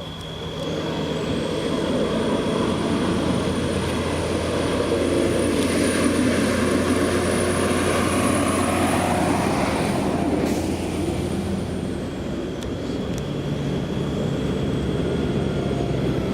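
A vehicle engine running with road and tyre noise, growing louder over the first two seconds and then holding steady, with a thin high whine over most of it. It cuts off suddenly at the end.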